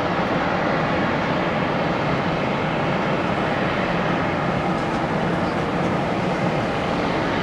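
Steady roar of jet airliner engines at an airport, holding at an even level with no rise or fall.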